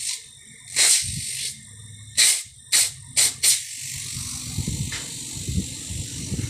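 Refrigerator compressor running on the bench with a low hum, broken by five short sharp hisses, the first about a second in and four more in quick succession between two and three and a half seconds; an uneven low rumbling sets in near the end.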